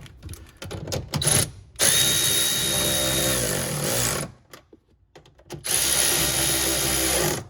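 A power tool runs in two bursts of about two seconds each, a steady whir with a high whine, after a few clicks.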